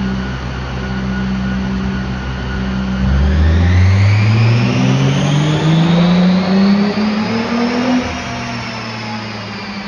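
Volkswagen Corrado race car's VR6 engine making a full-throttle dyno pull: its pitch climbs smoothly for about five seconds, then it lifts off about eight seconds in and drops back to a steadier running note. The engine is down on a cylinder.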